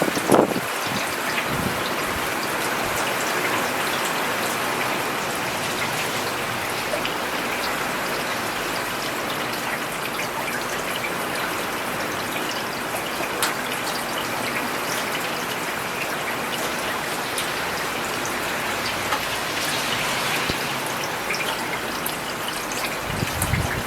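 Steady rain falling on a paved road: a dense, even patter of drops with scattered sharper splashes. Brief low rumbles come just after the start and again near the end.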